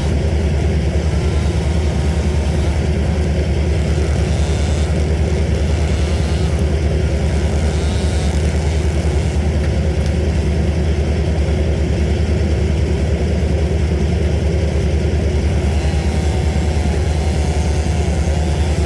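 A large engine running steadily at constant speed, a loud, unchanging deep drone.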